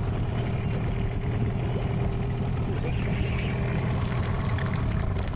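Boat motor idling with a steady low rumble and a faint even hum.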